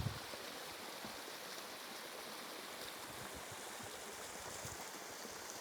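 Waterfall: water falling non-stop from high up and splashing below, a steady, even rush of water.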